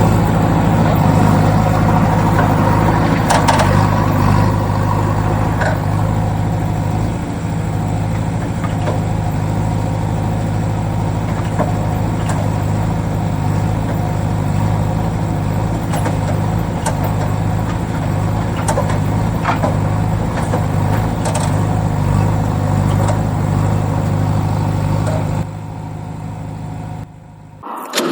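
A tractor-type engine idling steadily with a low, slightly pulsing rumble. It drops sharply in level near the end and cuts out almost entirely just before a new engine sound starts.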